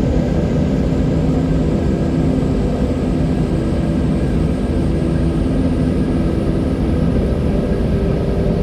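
Steady, deep wind noise at an even level, with a few faint humming tones running through it.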